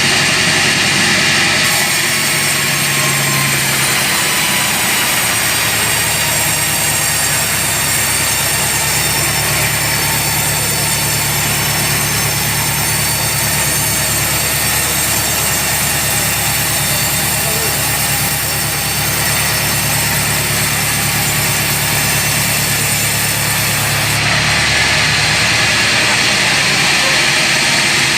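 Sawmill machinery running steadily with a low engine hum. A brighter hissing layer sets in about two seconds in and drops away about four seconds before the end.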